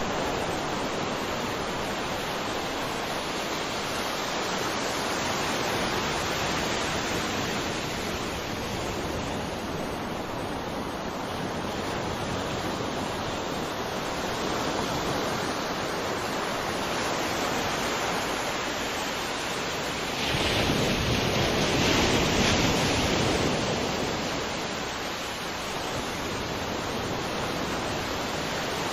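Sea waves breaking and washing on a shore, a steady rushing with slow swells, one louder wave surging about two-thirds of the way through.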